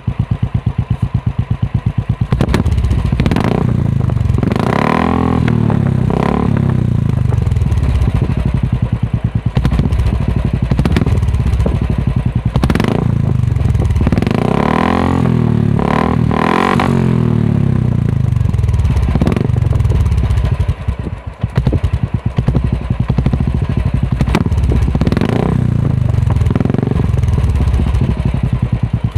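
Royal Enfield Classic 350's single-cylinder engine running through an aftermarket Red Rooster silencer, idling with an even pulsed beat. The throttle is blipped again and again, with revs rising and falling in short runs, some in quick pairs.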